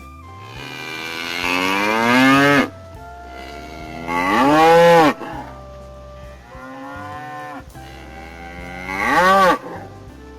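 Cow mooing: four long calls, each rising in pitch, the third one faint.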